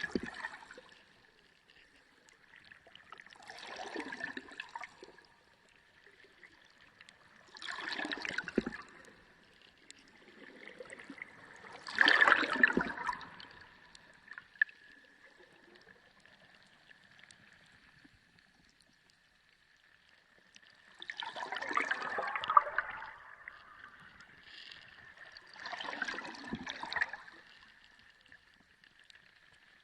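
Sea water surging and washing in slow swells, six rises and falls with a long lull in the middle, over a faint steady high whine.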